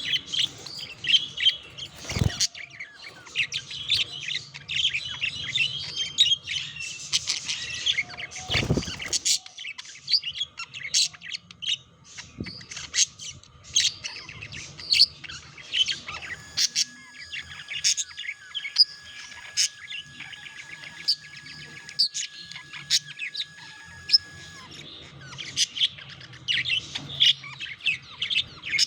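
Budgerigars chirping and warbling, a dense stream of short, rapid calls. Two dull thumps break in, about two seconds in and again near nine seconds.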